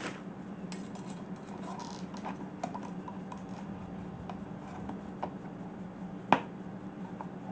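Small clicks and taps of metal hose clamps and rubber intake boot being handled and fitted, with one sharp click about six seconds in, over a steady low hum.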